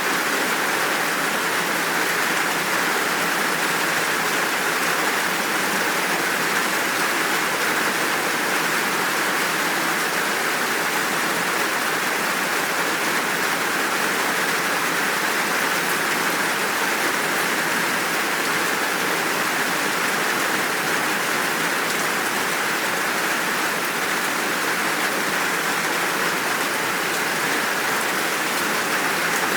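Steady, heavy rain falling. It is an even, unbroken hiss with no thunder claps.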